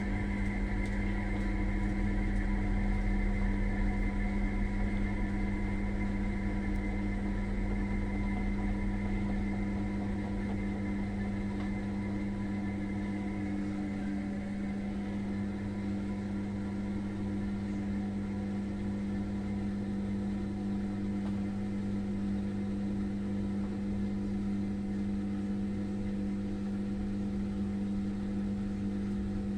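Daewoo washing machine running with a steady hum: an even tone with several overtones over a low rumble. The rumble eases about ten seconds in.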